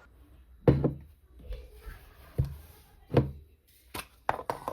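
Handling noise of hard objects: three dull thumps, then a few quick sharp clicks near the end.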